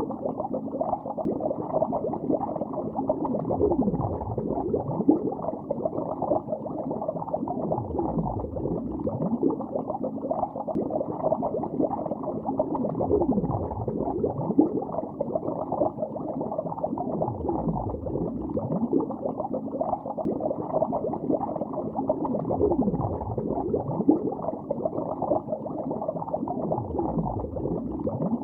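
Muffled bubbling heard underwater in a lake: a dense, low, continuous burble with a deeper swooping gurgle every four to five seconds.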